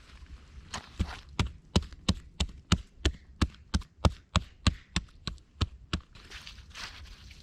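A quick run of about seventeen sharp, evenly spaced strikes, about three a second, like a blade or tool chopping into wood. They stop about a second before the end.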